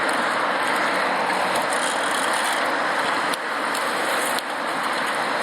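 Steady rush of wind and rolling noise from a recumbent bicycle being ridden, with mechanical drivetrain sound mixed in. The level dips briefly twice a little past the middle.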